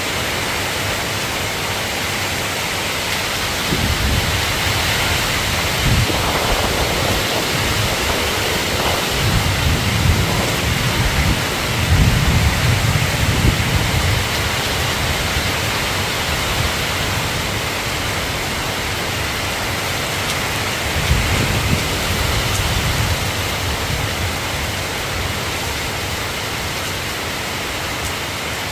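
Steady rain hiss with low rumbles of thunder rolling in a few seconds in, again for several seconds around the middle, and once more later on.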